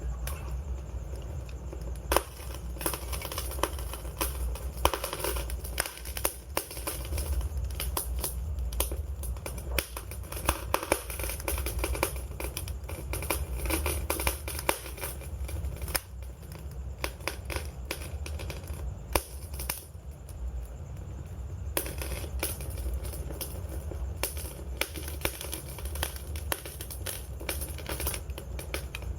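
Wood fire crackling, with dense, irregular small pops and several louder snaps over a steady low rumble of the flames.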